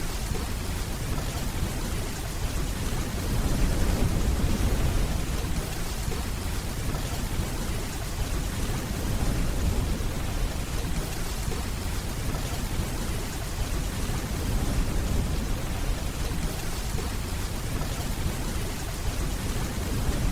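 Steady rainfall with a deep, low rumble of distant thunder underneath, swelling louder for a couple of seconds about three seconds in.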